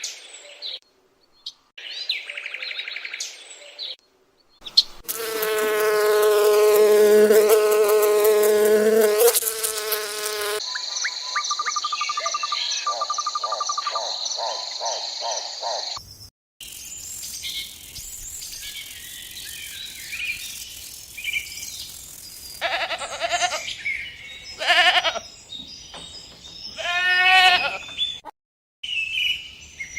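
A run of separate animal-sound clips cut one after another: a long pitched animal call lasting about five seconds, then a high steady insect-like buzz for about five seconds, then short scattered calls over background noise.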